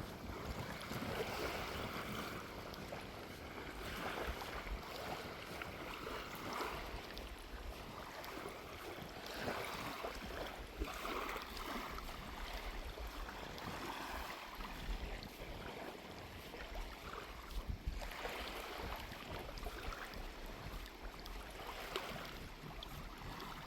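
Small waves washing onto a sandy beach, a soft swell of surf every few seconds, with the sea breeze rumbling on the microphone.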